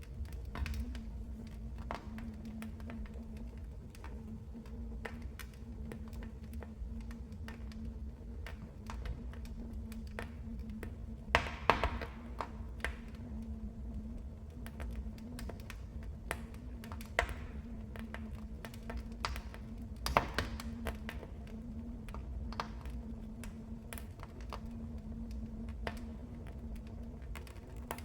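Wood fire crackling in a fireplace: irregular small snaps and ticks, with a few louder pops about halfway through, over a steady low rumble.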